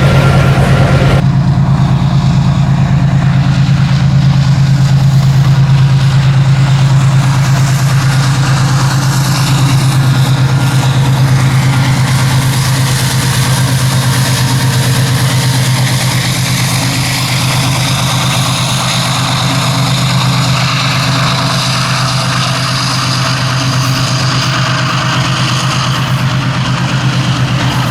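Diesel locomotive engine running close by with a loud, steady low drone that holds without a break.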